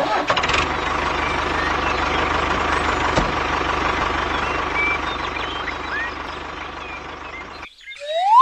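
Small motor, likely the mini tractor's, running steadily with a fast even pulsing, then cutting off suddenly near the end. Birds chirp faintly over it, and a rising whistle-like glide follows just after it stops.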